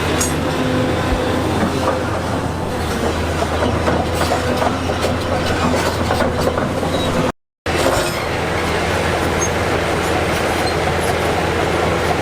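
Crawler earthmover's diesel engine running under a steady low hum, with metallic clanking and squealing from its steel tracks. The sound cuts out completely for a moment about seven seconds in, then carries on.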